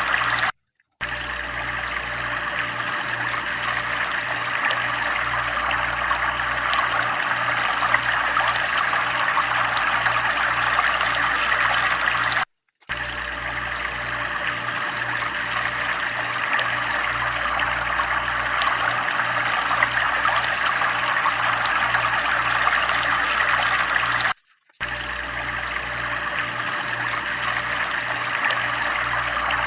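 Water pouring and splashing steadily from a tubewell, a constant rush that drops out completely for a split second three times.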